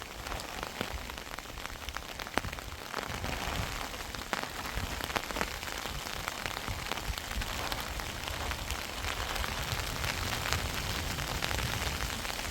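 Heavy rain falling steadily, a dense hiss with many sharp drop ticks over a low rumble.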